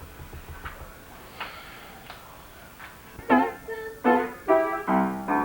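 A musical instrument starts playing a tune about three seconds in: a string of loud, separate notes or chords, each struck sharply and ringing briefly, after a few faint clicks.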